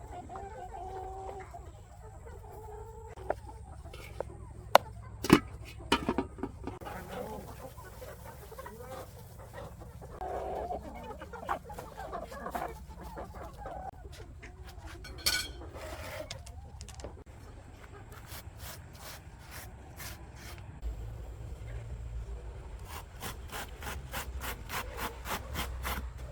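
Chickens clucking, interrupted by a few sharp knocks, the loudest sounds here. From about two-thirds of the way in, a hand saw cuts wood in quick, even strokes, about four a second.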